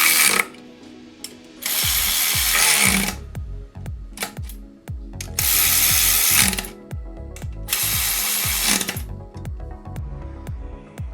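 Hand tools at work on an engine: a ratchet clicking, with four loud bursts of hiss of about a second each, over background music.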